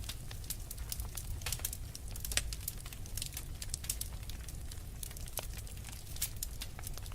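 Wood fire in a fireplace burning logs, crackling with frequent irregular sharp pops and snaps over a steady low rumble of the flames.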